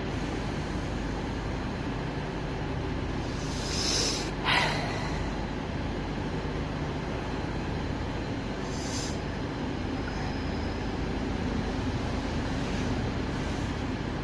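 Diesel train engines running steadily at a station platform, with short hisses breaking in: a louder one about four and a half seconds in ending in a sharp click, another about nine seconds in and a faint one near the end.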